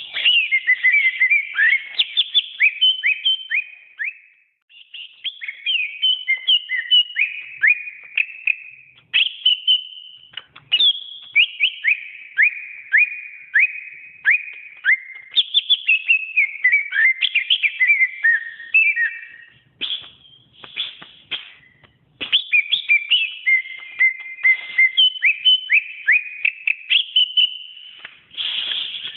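Green leafbird (cucak ijo) singing a fast, varied song of clear whistled notes, many of them quick downward sweeps, in runs of several seconds broken by short pauses.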